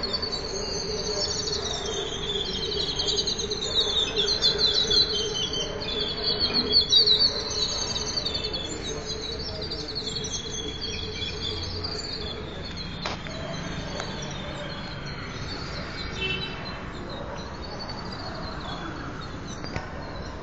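Several small birds singing with rapid chirps and trills, loudest in the first half and thinning out after about twelve seconds. A steady low hum runs beneath the first half, and a single sharp click comes about thirteen seconds in.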